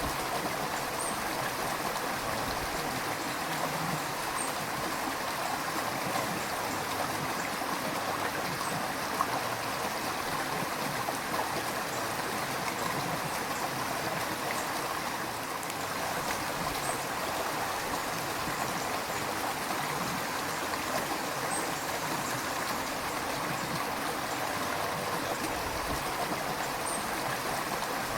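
River water flowing in a steady, even rush with light gurgling.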